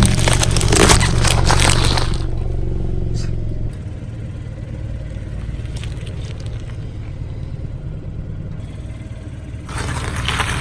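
Car tyre rolling slowly over brittle objects and crushing them with dense crackling and crunching, over the low running of the car's engine. The crunching stops about two seconds in, leaving the engine sound, and the crunching starts again near the end.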